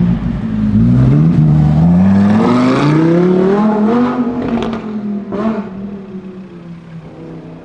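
Lamborghini Huracan STO's naturally aspirated V10 accelerating hard, its pitch climbing in steps through upshifts, then levelling off as the car goes by and fading away over the last few seconds.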